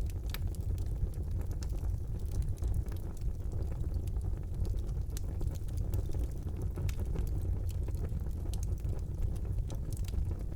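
Fire burning in a fireplace: a steady low rumble with frequent sharp crackles and pops at irregular intervals.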